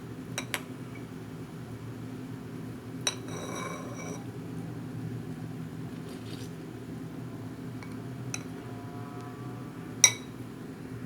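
Glass and kitchenware clinking as they are handled: a few sharp clinks, one about three seconds in with a short ring after it, the loudest near the end, over a steady low hum.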